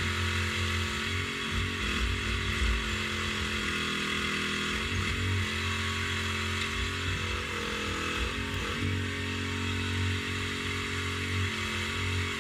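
Mini excavator's diesel engine running steadily, its note wavering slightly up and down as it works.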